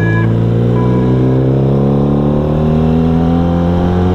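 Motorcycle engine, a single-cylinder Honda Revo, pulling steadily under acceleration, its pitch rising slowly and evenly. A brief steady high tone sounds at the start and again about a second in.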